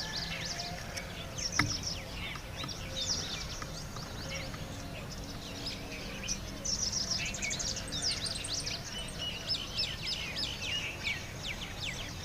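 Many small birds chirping and twittering in quick high notes and trills, over a steady low background hum, with one sharp click about a second and a half in.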